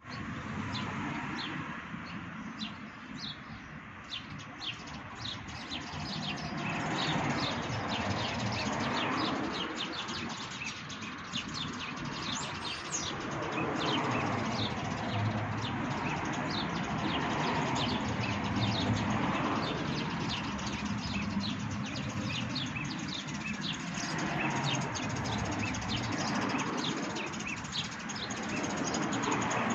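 Small birds chirping, a rapid string of short, high chirps that goes on throughout, over a steady rushing background noise.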